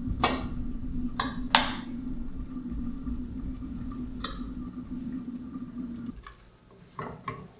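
Several sharp clinks and knocks of kitchenware over a steady low hum. The hum stops about six seconds in.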